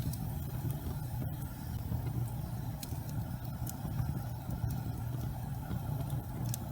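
Gas fireplace flames burning with a steady low rumble, a few faint crackles and ticks scattered through it.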